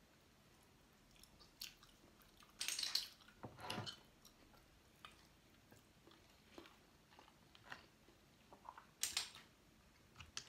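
Close-miked chewing of clam meat, heard as a handful of short mouth noises between quiet stretches, the loudest about three seconds in and again near nine seconds.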